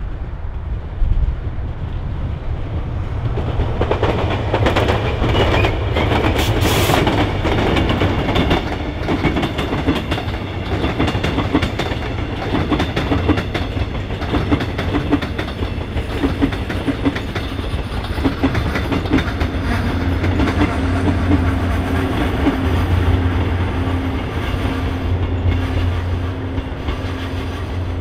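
A six-car Mugunghwa passenger train running on the rails, its wheels clicking rapidly over rail joints, with a steady low hum underneath. The sound builds over the first few seconds and stays loud.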